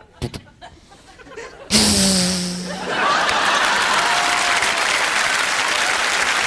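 Studio audience applauding and cheering, starting about three seconds in, just after a sudden loud low tone about a second long.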